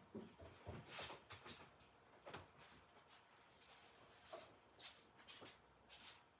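Faint, irregular clicks and light taps, about a dozen over a few seconds with no steady running sound between them.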